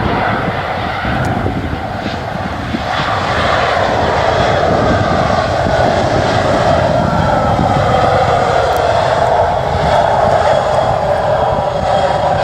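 Aircraft engines running loudly and steadily, with the sound growing louder about three seconds in and a faint whine gliding slowly in pitch.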